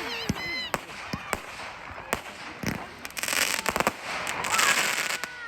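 Fireworks going off: several separate sharp bangs, then two spells of dense crackling from about three seconds in and again near the end.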